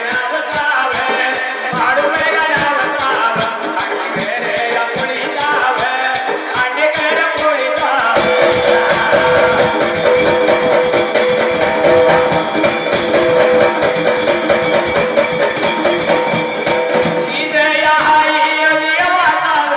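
Live Marathi folk music: fast, continuous jingling percussion over a held instrumental note, with voices singing in places.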